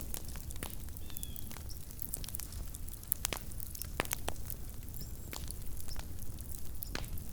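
Small wood campfire crackling: irregular sharp pops and snaps, several a second, over a low steady rumble.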